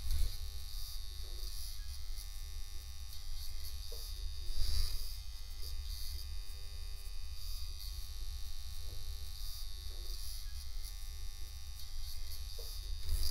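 Steady electric buzz with a low hum and hiss. A few faint short sounds come over it, and it swells briefly about four and a half seconds in.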